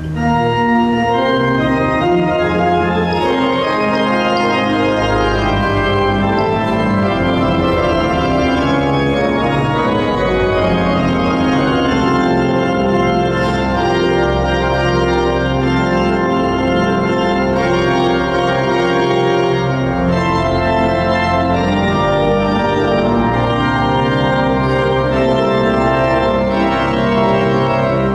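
Pipe organ playing full, sustained chords with deep bass notes underneath, in an organ arrangement of Taiwanese folk melodies.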